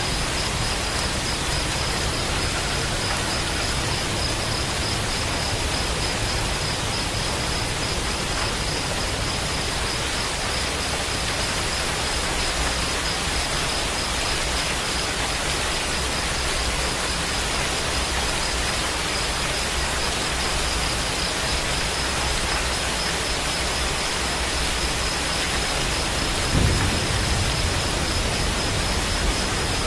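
Steady rain falling, with a low rumble of thunder near the end. A thin steady high tone runs underneath.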